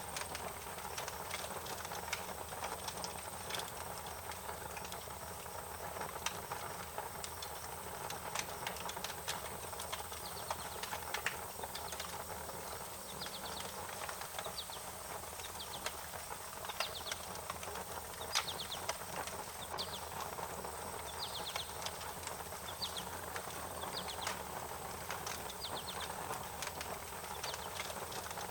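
Wood fire crackling, with irregular sharp pops over a steady hiss. From about halfway through, a bird chirps in short quick bursts of a few notes.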